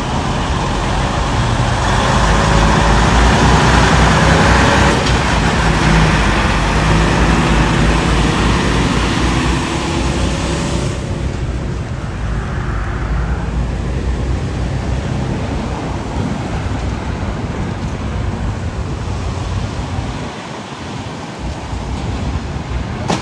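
Road vehicle running close by with a steady engine note over a rushing noise, loudest in the first ten seconds. The hiss drops away sharply about eleven seconds in, leaving a lower rumble.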